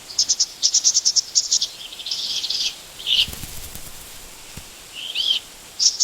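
Small songbird calling in high chirps: a quick run of short notes in the first second and a half, a buzzy trill after about two seconds, then single calls, one of them curving down in pitch, and another short burst of chirps near the end, over a faint steady hiss.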